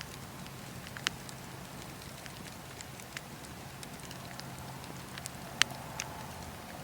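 Wood campfire burning: a steady low rush of flame with a few scattered sharp crackles and pops, the loudest about five and a half seconds in.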